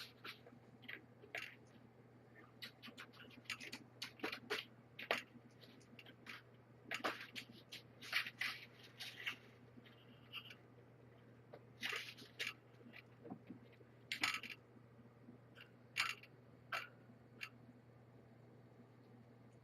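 Kittens eating from a shared food bowl: irregular small clicks and crunches, some in quick clusters, over a faint steady hum.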